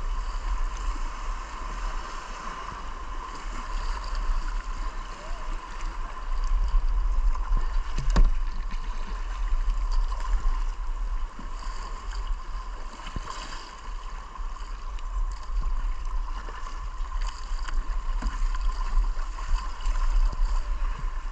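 White-water river rapids rushing, with a deep rumble and one sharp knock about eight seconds in.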